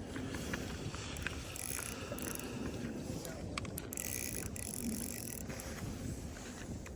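Ice-fishing reel on a jig stick clicking and ratcheting as line is worked during the fight with a large fish that has run out far on a reel holding little line.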